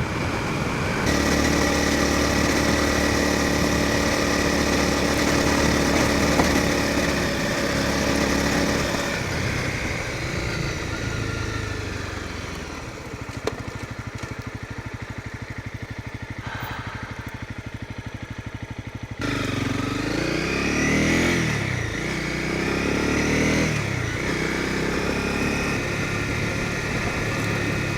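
Honda CRF250 Rally's single-cylinder engine: steady cruising, then slowing and ticking over at idle for several seconds, then pulling away at about two-thirds of the way through, its pitch rising and falling through the gears before settling back to a steady run.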